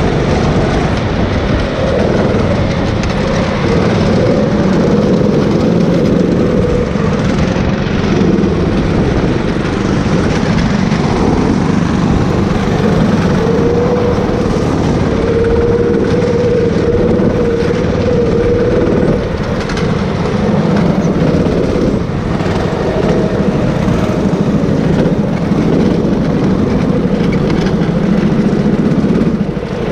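Go-kart engine running hard and continuously, its note rising and falling with throttle; about two-thirds of the way in it climbs gradually for several seconds, then drops back.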